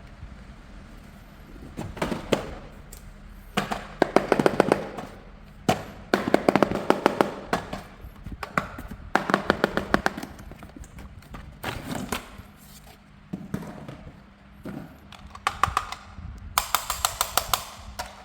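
Rapid clicking and rattling in bursts of a second or two, repeated about eight times with short pauses between.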